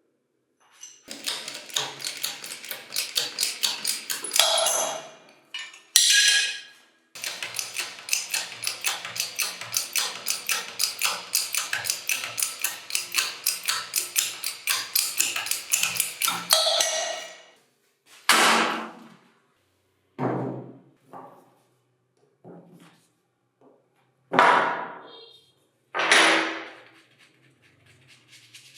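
Hammer blows on the metal parts of a concrete vibrator being knocked apart: two long runs of quick, even taps at about five a second, then a handful of single, heavier blows spaced a second or two apart.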